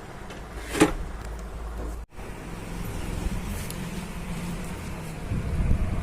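Low steady electrical hum with a sharp click about a second in. The sound cuts out suddenly about two seconds in, then comes back as low rumbling and handling knocks, heavier near the end.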